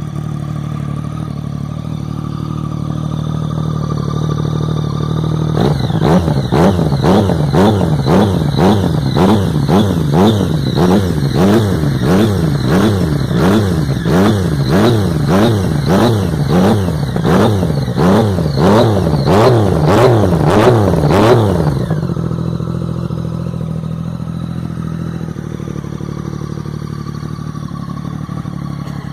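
Yamaha MT-09 three-cylinder engine breathing through an aftermarket exhaust with a Two Brothers header, idling. About five seconds in it is revved in quick repeated blips, about one a second, for roughly sixteen seconds, then it drops back to a steady idle.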